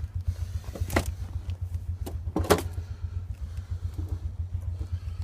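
Two ATV engines idling with a steady, rapidly pulsing low rumble, with sharp clicks and knocks about a second in and again about two and a half seconds in.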